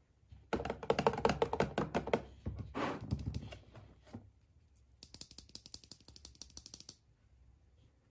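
Packaging of a surprise toy being handled and opened by hand: a dense patch of clicks and rustles, a second shorter burst, then a run of fast, fine, high-pitched ticks for about two seconds.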